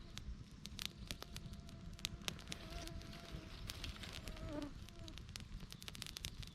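Small twig campfire crackling, with frequent sharp pops. A flying insect buzzes close by for a couple of seconds in the middle.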